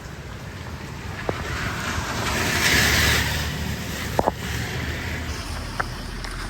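A vehicle passing, its hiss swelling and fading about two to three seconds in over a steady low rumble, with a few faint clicks.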